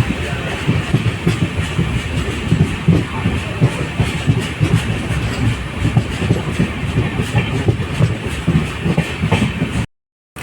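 LHB passenger coach of a moving express train running over the track: a steady rumble with dense, irregular knocking of the wheels and a hiss on top. The sound cuts off abruptly near the end.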